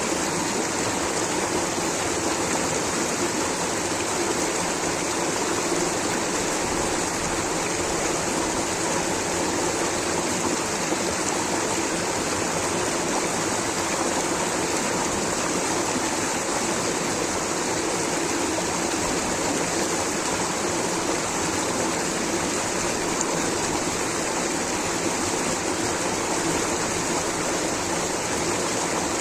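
Waterfall water rushing in a steady, unbroken wash with no breaks or changes.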